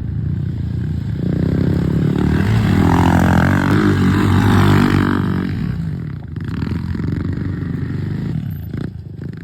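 Pit bike engine revving up and holding high revs, then easing off about five seconds in and picking up again.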